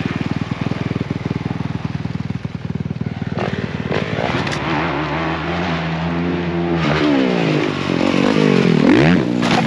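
Motocross bikes running: a steady low engine for the first few seconds, then several engines revving up and down with rising and falling pitch, one chopping the throttle and picking it back up near the end.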